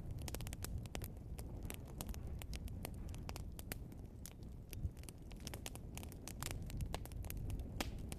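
Wood fire of burning logs crackling steadily, with irregular sharp pops and snaps over a low rumble of the flames.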